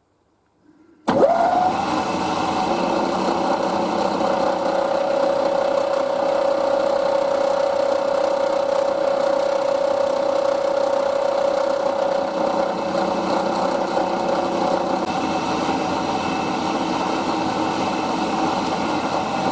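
Milling machine running a cut in an aluminium test part, taking half-millimetre-deep passes. It starts abruptly about a second in, with a brief rise in pitch, then holds a steady running tone.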